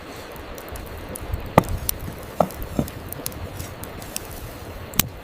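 Wood campfire burning: a steady hiss with scattered sharp pops and crackles, the loudest crack near the end.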